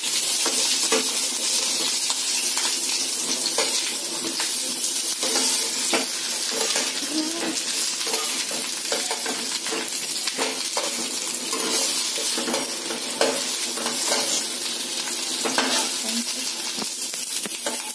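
Halved potatoes sizzling steadily as they fry lightly in hot mustard oil in a pan, with a spatula stirring and knocking against the pan every second or so.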